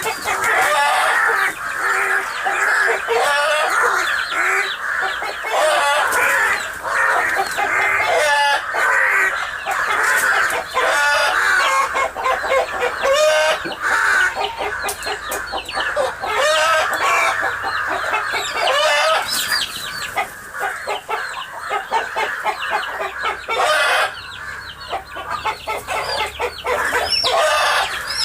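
Domestic chickens, a mother hen among them, clucking and calling without pause, with many calls overlapping.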